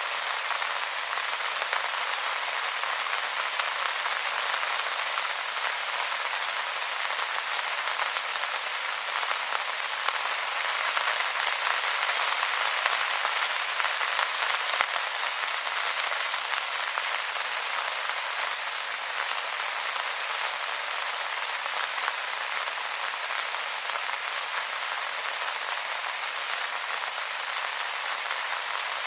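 Steady rain falling on leaves, a dense even patter of many small drop taps.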